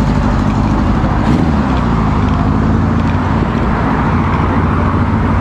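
Motorcycle engine running steadily, its pitch rising and falling slightly about a second to three seconds in.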